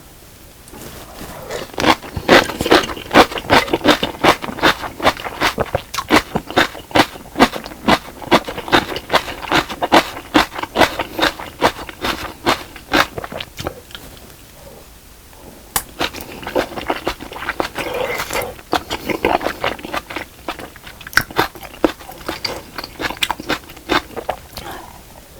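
Close-miked chewing of soft fish cake and rice cake: fast wet mouth smacks and clicks, several a second. There is a short pause about halfway through before the chewing starts again.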